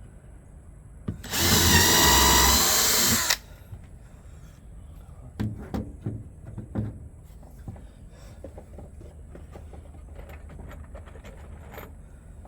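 Power drill running at a steady speed for about two seconds, into the wood of a birdhouse being built. A few knocks and clicks of handling follow.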